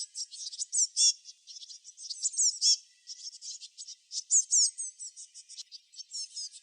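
Small songbirds chirping: a dense run of quick, high notes and fast downward-sweeping whistles, with brief lulls about halfway through and again near the end.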